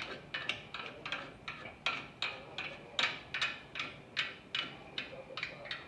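Lug nuts being spun onto a truck's front wheel studs, giving a steady run of sharp metallic clicks, about three a second, each with a short ring.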